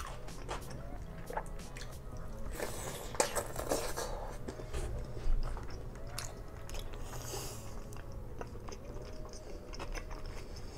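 Close-miked mouth sounds of biting and chewing grilled squid, with scattered soft clicks and a couple of short rustling noises.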